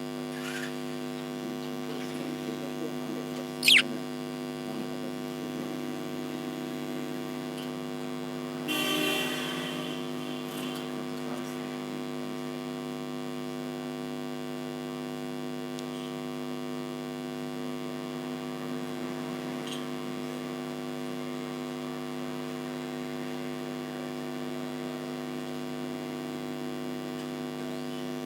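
Steady electrical hum with many overtones. A single sharp chirp sweeps down from very high about four seconds in, and a short hiss comes just before ten seconds.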